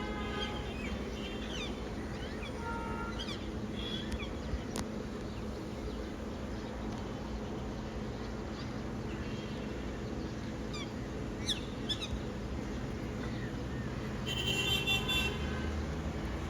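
A parrot gives short chirps and whistles now and then over a steady hum of street traffic. Near the end a louder, longer honk-like sound with several tones stands out.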